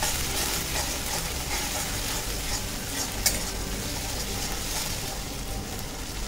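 Ginger paste and whole spices sizzling in hot ghee in a metal kadai, stirred with a metal spatula that scrapes and taps the pan, with one sharp tap about three seconds in. The ginger is being sautéed in the ghee.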